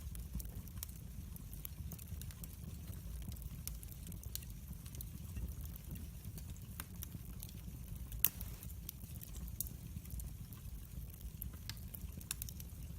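Wood fire burning in a fireplace, with a steady low rumble under irregular sharp crackles and pops. The loudest pop comes about eight seconds in.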